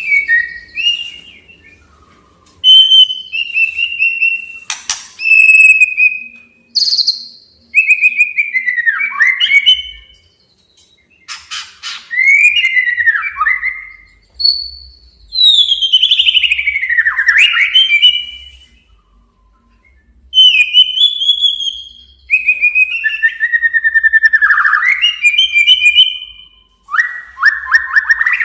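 White-rumped shama (murai batu) male singing a challenging song: loud phrases of gliding whistles and fast repeated notes, each one to three seconds long with short pauses between, with a few sharp clicking notes mixed in.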